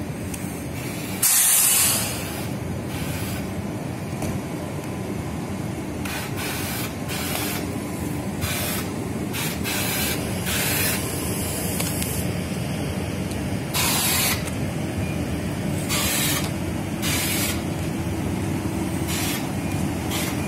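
Passenger train rolling slowly past with a steady low rumble, cut by many short hissing bursts, the loudest about a second in.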